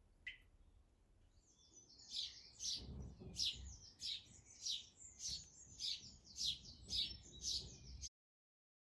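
Garden birds chirping: one short call, then a steady run of high chirps about two a second, which cuts off suddenly near the end.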